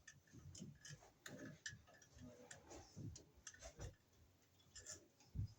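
Faint, irregular light clicks and taps of wires and hand tools being handled at an electrical wall box.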